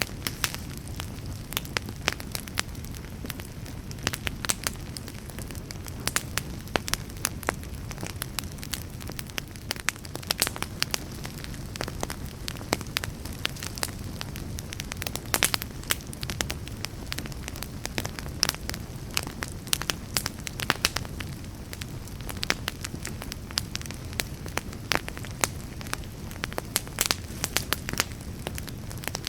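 Wood fire burning: a steady low rumble of the flames under frequent sharp, irregular crackles and pops.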